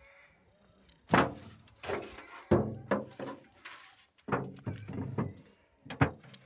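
Wooden knocks and thuds, about nine irregular strikes, as a wooden beehive box and its cover are handled and set in place.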